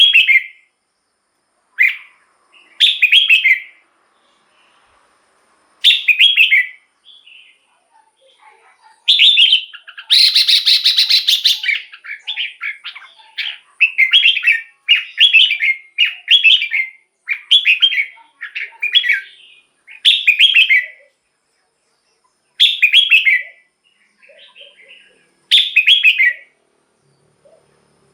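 Red-whiskered bulbul singing: short, bright whistled phrases repeated every second or two. About ten seconds in there is a longer, noisier call, then a quick run of phrases about one a second.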